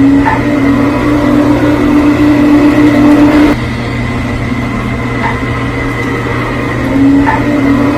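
Scale model train running on its track: a steady motor hum and whine that fades about three and a half seconds in and picks up again near the end.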